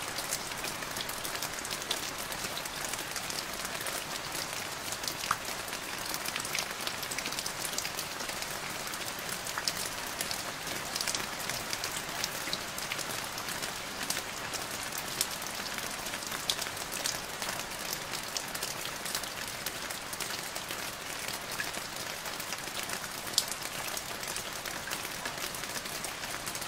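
Steady rain splashing into a puddle: an even hiss with many separate drops ticking through it.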